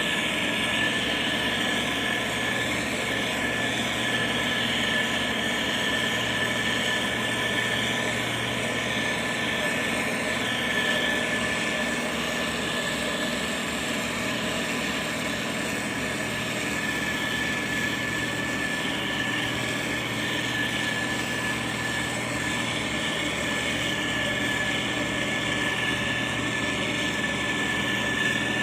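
Heavy construction machinery, a motor grader or road roller, running steadily with a constant engine hum and a thin steady whine above it.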